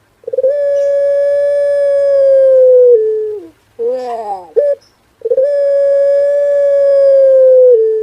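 Male puter pelung dove, a ringneck dove bred for its long coo, cooing: two long drawn-out coos, each held steady for about two and a half seconds and dropping at the end, with a short burst of falling notes between them.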